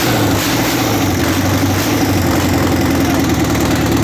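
A-41 four-cylinder tractor diesel engine running steadily on its first run after a major overhaul.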